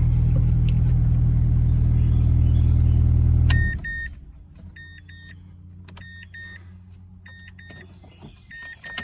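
2010 Mazda 3's 2-litre four-cylinder engine idling steadily, then switched off about three and a half seconds in. After it stops, the car's warning chime beeps in quick pairs, repeating about once a second.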